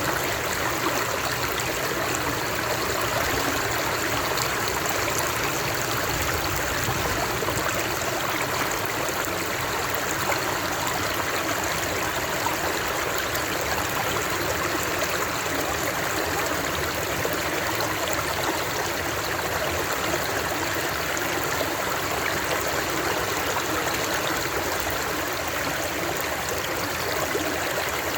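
Running water flowing steadily and evenly.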